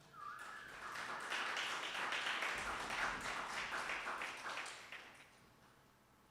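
Audience applauding. The clapping swells about a second in and dies away over the last second or so.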